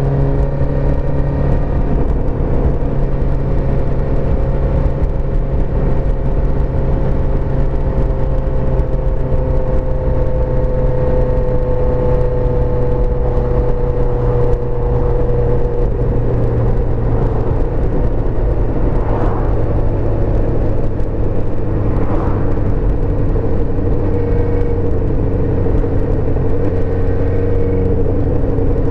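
1984 Suzuki GSX-R400's inline-four engine running steadily under way. Its pitch sinks slowly over the first half as the bike eases off, then holds, over a low wind and road rumble.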